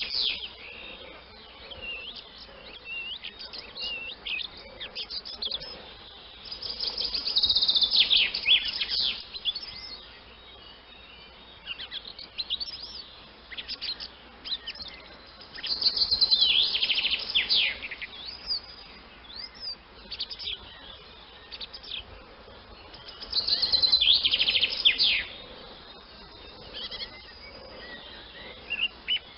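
Swallows twittering: bursts of rapid high chirps about every eight seconds, with scattered single chirps between.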